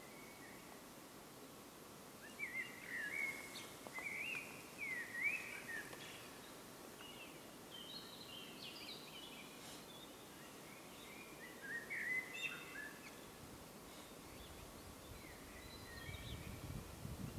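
Birdsong in short chirping phrases, coming in several bouts, over a faint steady outdoor hiss. A low rumble rises near the end.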